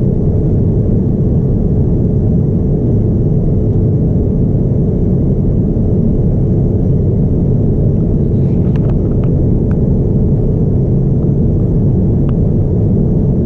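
Steady low rumble of cabin noise inside a Boeing 787-9 Dreamliner in flight: engine and airflow noise heard from a seat over the wing. A few faint light ticks come through a little past the middle and again near the end.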